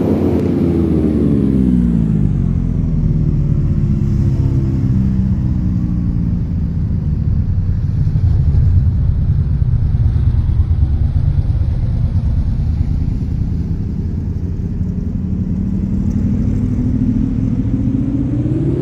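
Motorcycle engine running on the road. Its pitch falls as it slows over the first couple of seconds, settles into a low steady rumble, then climbs again near the end as it speeds up.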